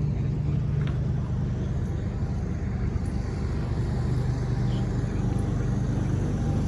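A car engine idling steadily, a low even rumble with no revving.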